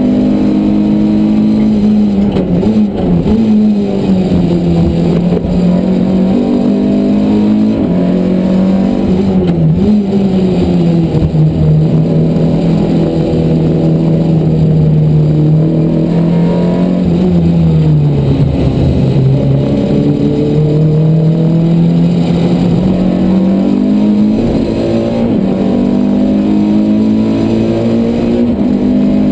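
Renault Clio race car's engine heard from inside the cabin, running hard at racing speed. Its pitch sinks and rises through the corners, with brief blips; it dips lowest a little past halfway, then climbs again.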